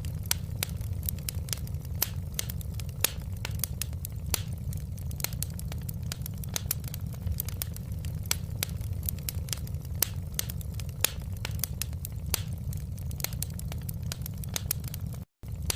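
Wood fire crackling in a fireplace: irregular sharp pops and snaps, several a second, over a steady low rumble of the flames. The sound drops out for a split second near the end.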